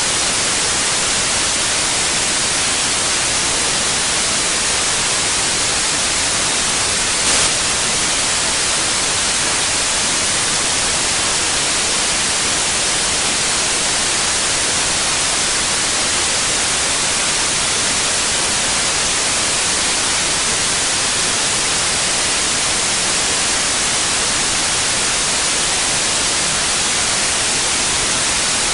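Steady white noise: an even, unchanging hiss, brightest in the treble. One brief blip about seven seconds in.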